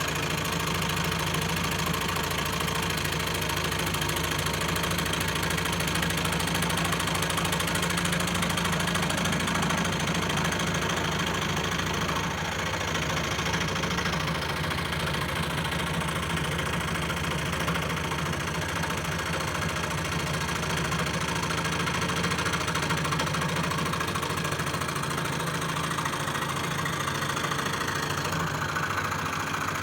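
Scroll saw running steadily, its blade moving up and down in a fast, even rhythm with a constant low mechanical hum.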